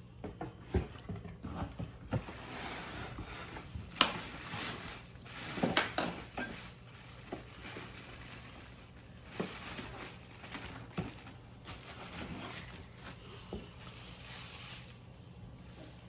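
Ceiling-fan parts and their packaging being handled: plastic wrapping rustles and crinkles, and hard pieces clack and knock now and then as they are picked up and set down.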